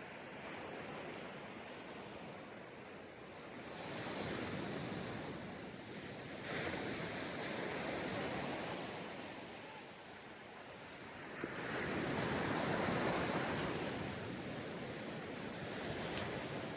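Ocean waves breaking on a sandy beach, the surf washing in swells, with three louder breakers about 4, 6.5 and 11.5 seconds in, the last the loudest.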